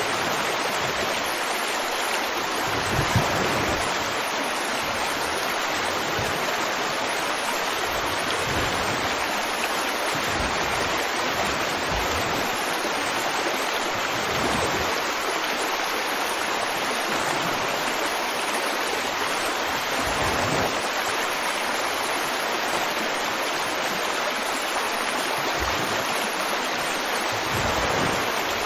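River water flowing and rushing steadily, with occasional low thuds in the current, the loudest about three seconds in.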